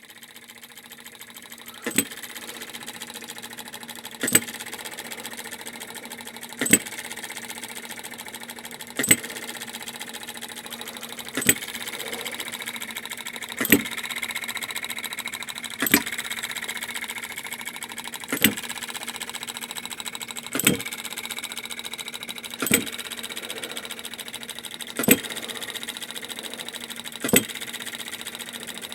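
A small machine running steadily with a steady hum, and a sharp click repeating about every two and a quarter seconds.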